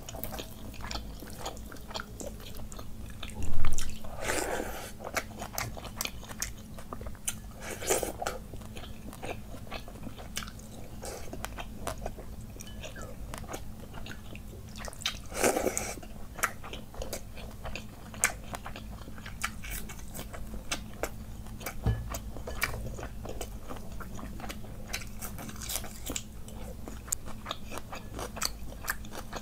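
Close-miked wet chewing and mouth smacking of a person eating panta bhat, water-soaked rice, by hand, with a few louder, longer wet mouth sounds and one thump about three and a half seconds in.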